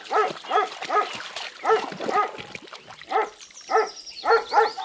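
A dog barking over and over: short barks, about two a second, some in quick pairs.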